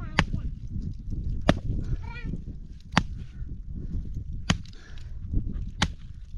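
Axe chopping firewood: five sharp strikes into wood, evenly spaced about a second and a half apart.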